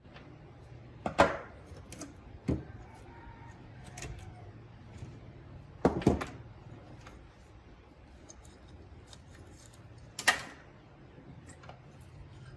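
Small hard objects being handled: a few separate sharp clicks and knocks, a double knock around six seconds in and the loudest about ten seconds in, with fainter ticks between.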